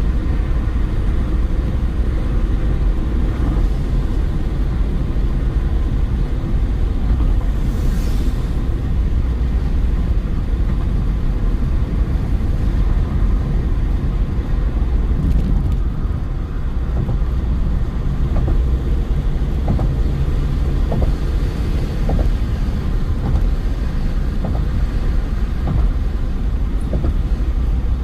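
Car driving at a steady speed: continuous low road and engine rumble. A brief hiss comes about eight seconds in, and faint ticks sound roughly once a second through the second half.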